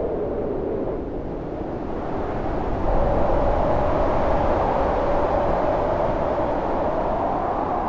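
Storm wind howling steadily, with a moaning pitch that rises and swells about three seconds in.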